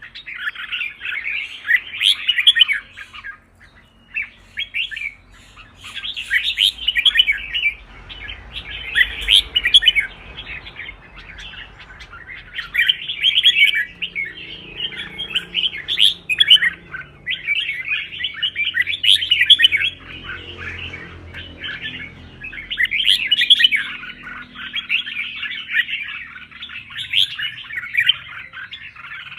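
Red-whiskered bulbul singing in dense, rapid runs of clear chirping phrases, broken by a few short pauses. It is the fast, competitive song that bulbul keepers call hót đấu.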